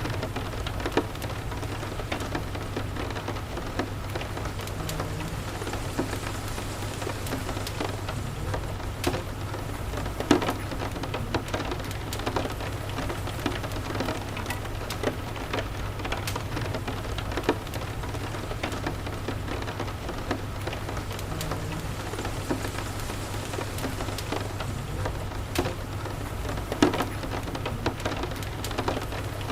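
Steady rain with a crackling wood fire: an even hiss of rain, with scattered sharp pops and crackles throughout. Two louder pops come about ten seconds in and near the end.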